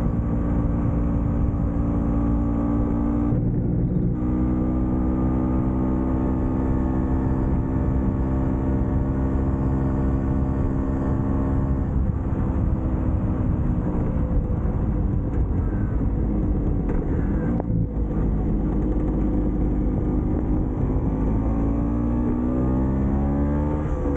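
Vespa PX scooter's two-stroke single-cylinder engine running under way. It holds a steady pitch, drops out briefly about three seconds in, winds down from about twelve seconds, and picks up speed again near the end.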